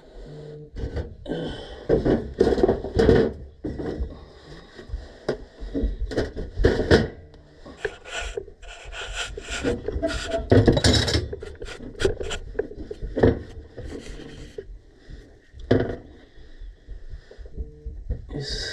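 Hand tools scraping, rubbing and knocking against a furnace gas valve and its pipe fittings, in irregular bursts of short clicks and scrapes, as the valve is worked loose in a tight space.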